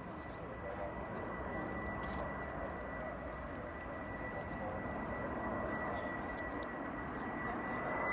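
Boeing 767 jet airliner flying over: a steady engine noise with a thin high whine, slowly growing louder toward the end.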